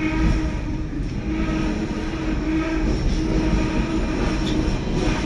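Hong Kong double-decker tram running along its track: a steady low rumble with a constant humming tone.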